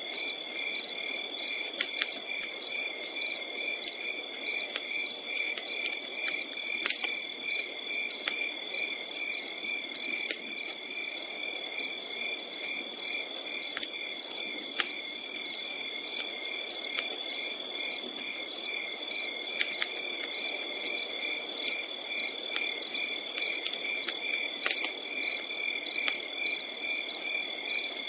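Crickets chirping in a steady high trill with pulsing chirps, over the crackle of a campfire: scattered sharp pops and a soft hiss of burning wood.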